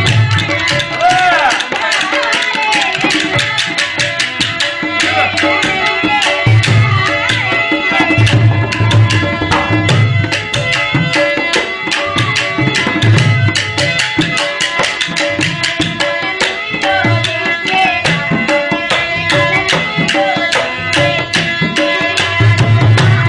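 Rajasthani folk song music in an instrumental passage, driven by a fast, steady hand-drum rhythm with a pitched melody over it.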